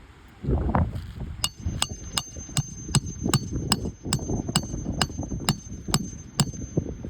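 A hammer tapping in a steady rhythm: about fourteen light, ringing metallic strikes at nearly three a second, likely nailing down a new asphalt shingle. Under them is an uneven low rumble of wind on the microphone.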